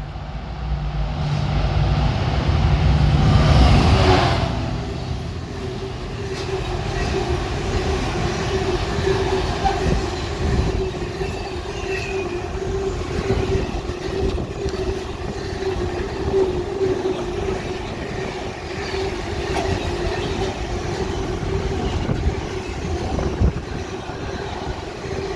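Class 66 diesel-electric locomotive hauling a freight train through the station, its engine loudest about four seconds in as it passes. The long rake of freight wagons follows, rolling by with a steady hum and repeated clicks of wheels over rail joints.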